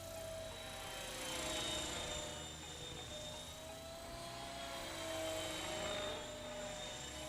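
Radio-controlled Esky 900 helicopter in flight: a steady motor and rotor whine that wavers slightly in pitch and swells louder twice as it is flown about.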